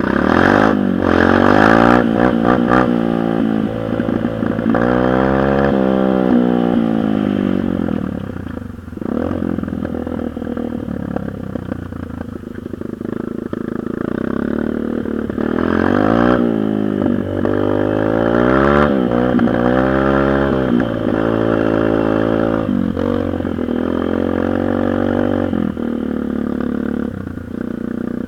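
Dirt bike engine revving up and down as it is ridden, its pitch climbing and falling over and over, with a short drop about nine seconds in.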